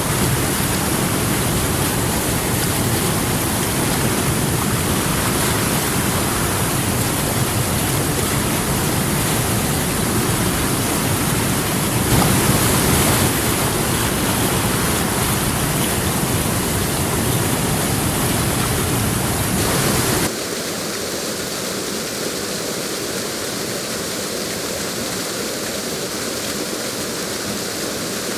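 Steady rush of falling water from a forest waterfall and stream. About twenty seconds in it cuts suddenly to a quieter, thinner water sound.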